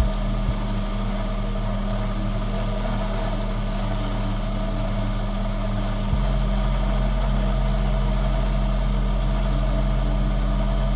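Homemade mini lathe running, its electric motor giving a steady hum, with a slight shift in tone about six seconds in.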